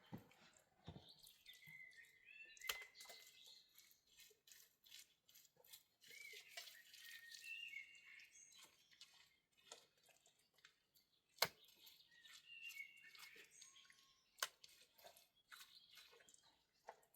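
Faint bird chirping comes in three short spells. Three sharp clicks or knocks and many faint ticks are heard between them.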